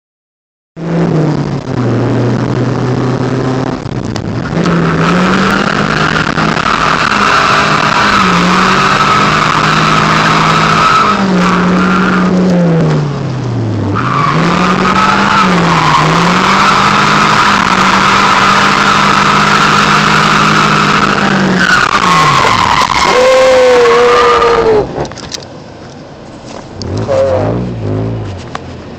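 Modified KA24DE 2.4-litre inline-four with aftermarket intake and exhaust, heard from inside the cabin, held at high revs and dipping and rising with the throttle, while the tyres squeal steadily as the car slides through the turns on its welded differential. Engine and tyre noise drop away sharply near the end.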